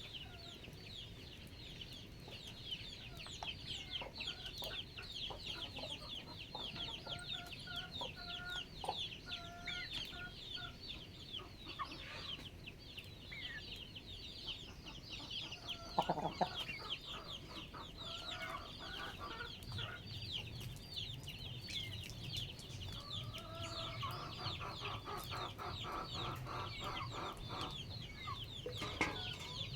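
Backyard chickens clucking, over a constant stream of high, short, falling chirps. One louder call comes about sixteen seconds in, and the clucking thickens near the end.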